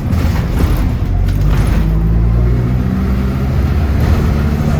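City bus heard from inside, its engine running under a steady low rumble of road noise. The engine note climbs a little around the middle.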